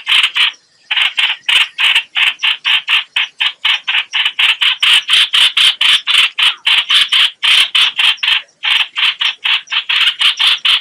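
Recorded lure call of the bird known in Vietnamese as 'hoạch hoạch', used for bird trapping: a fast run of short, harsh, scratchy notes at about four to five a second, with a short break just under a second in and another about three quarters of the way through.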